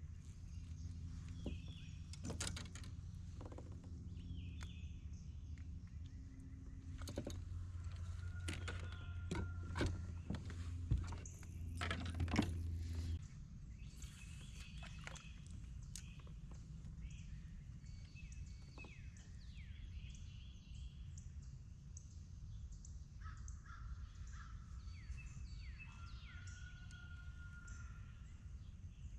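Birds calling and chirping outdoors over a steady low hum that cuts off about halfway through, with scattered knocks and clatters in the first half.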